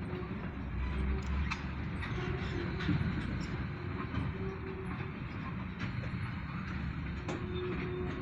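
Freight train of grain hopper cars rolling past, a steady rumble with scattered sharp clicks from the wheels on the rails.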